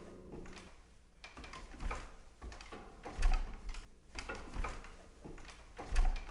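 Sound effects of someone opening up an attic and climbing in: scattered wooden creaks and clicks with several heavy thumps, the loudest about three seconds in and again near the end.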